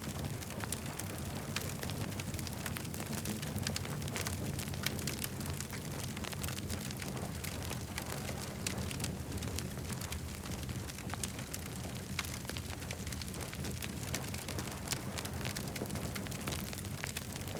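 Campfire burning, with dense irregular crackles and pops over a steady low rumble of the flames.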